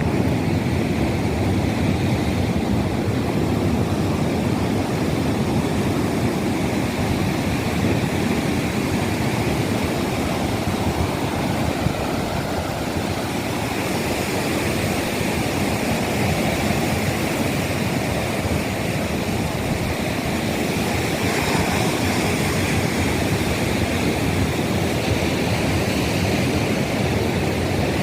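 Steady rushing wind noise over the microphone from riding a motorcycle, with the road and engine blended into it.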